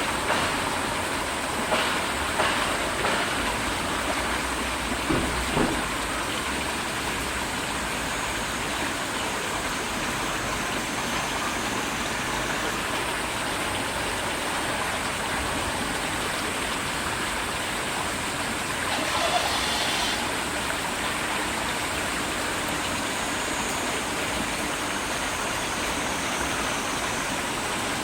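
Steady rush of flowing river water, with a low rumble in the first few seconds. A few brief louder sounds come early on, and one short sound comes about two-thirds of the way through.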